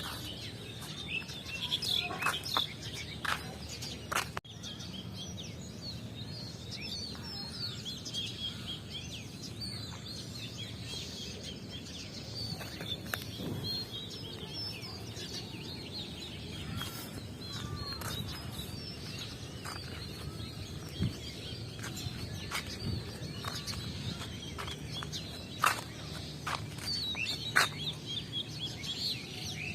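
Morning birdsong: many small birds chirping and twittering on and off, with a few louder calls standing out, over a faint steady low background hum.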